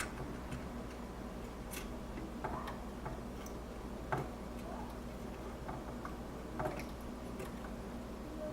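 Soldering iron and solder wick at work on a circuit board pin: faint, irregular small clicks and taps over a steady low hum.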